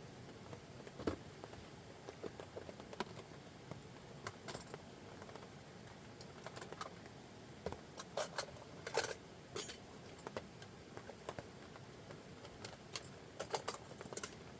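Wood campfire crackling: irregular sharp pops and snaps, a cluster of louder ones about eight to ten seconds in, over a steady soft hiss.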